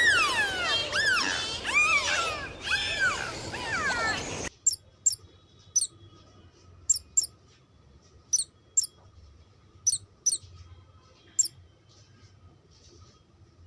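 Animal calls: loud whistling cries that glide up and down in pitch, cutting off about four seconds in. Then short, very high-pitched squeaks, mostly in pairs, with a faint steady tone beneath.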